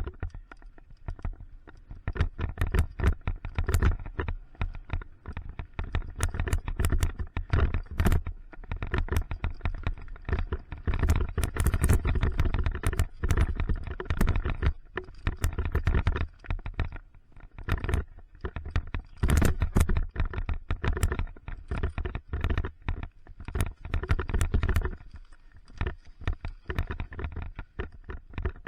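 Mountain bike descending a dirt trail: a steady low rumble of tyres and wind on the camera. Rapid, irregular rattles and clacks come from the bike's chain and frame over bumps, easing off briefly near the end.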